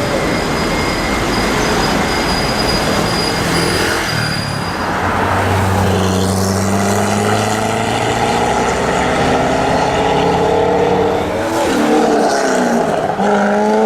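Loud V8 engine of a drag Corvette running hard. A dense noisy rumble for the first few seconds, then the engine note climbs slowly, drops briefly about twelve seconds in and climbs again near the end.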